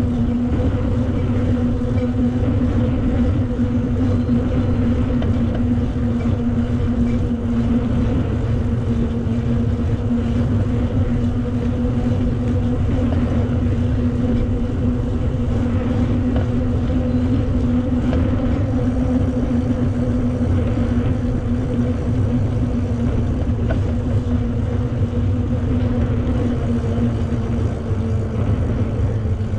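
Steady hum holding one pitch, over a constant low rumble of wind and rolling noise from a bicycle being ridden.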